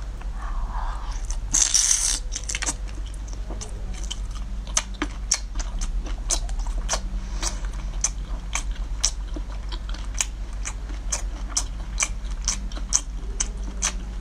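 Close-up mouth sounds of a person biting into and chewing a chunk of lobster meat: a loud bite about two seconds in, then wet chewing smacks about two a second, over a steady low hum.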